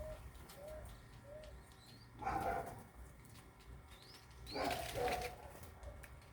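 Birds calling. A soft short note repeats about three times a second at the start, then two louder, harsher calls come about two and four and a half seconds in, each led by a short rising whistle.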